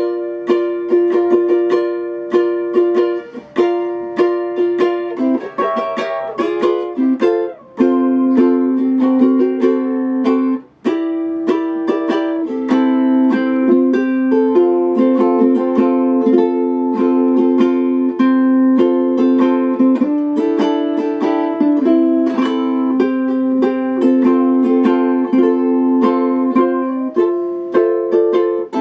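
Instrumental music on a plucked string instrument, likely a ukulele: picked notes and ringing chords in a flowing tune, without singing, with a few brief breaks.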